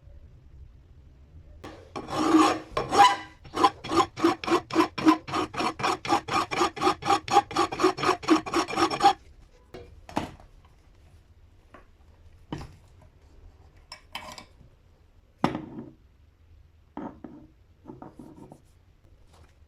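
Rhythmic rasping strokes, about four a second for roughly seven seconds, then a handful of separate single strokes.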